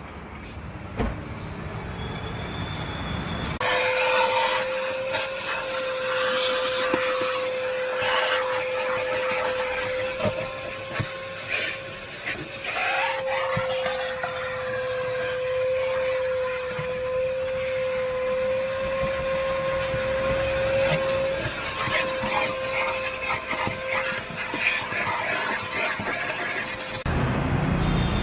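High-pressure washer spraying a car: a loud steady hiss of the water jet over a steady motor whine. It starts abruptly about four seconds in and cuts off about a second before the end.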